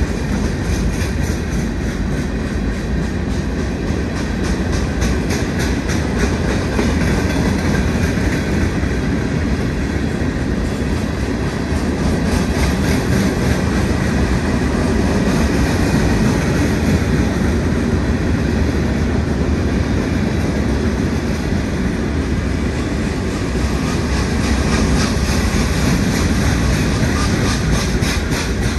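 Providence & Worcester stone train's open hopper cars rolling past, a steady heavy rumble of steel wheels on rail with a rhythmic clicking in stretches.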